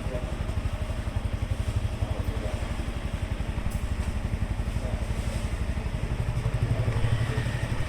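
Yamaha XSR 155's single-cylinder four-stroke engine idling, with a steady, even exhaust beat. It swells slightly near the end.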